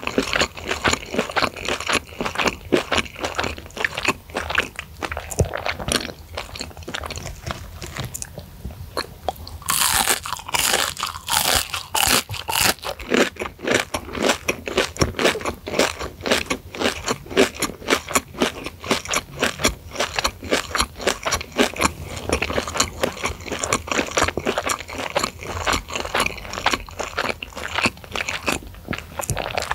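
Close-miked chewing of deep-fried, breadcrumb-coated crispy chicken sticks dusted with chili flakes: a steady stream of crisp crunches, with a louder, sharper run of crunches about ten seconds in.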